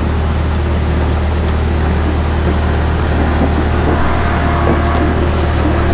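Skid steer loader's engine running steadily, with a deep, even drone.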